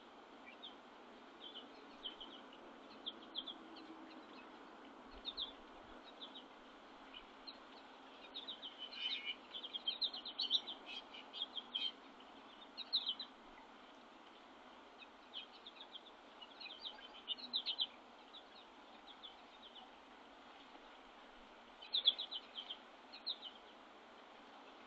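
Songbirds at a winter feeder giving short, high chirps and call notes in scattered bursts, busiest about a third of the way in, over a faint steady outdoor hiss.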